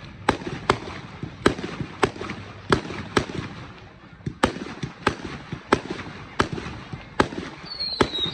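Firework display: about a dozen sharp bangs in quick succession, roughly one every half second to second, with a short lull in the middle. Near the end, high whistles sweep downward in pitch.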